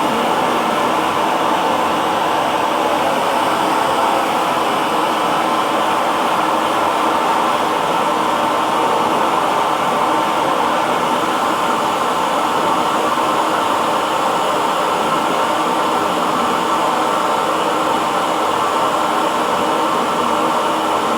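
Hair dryer running steadily: an even rush of blown air with a faint constant motor hum, unchanging throughout.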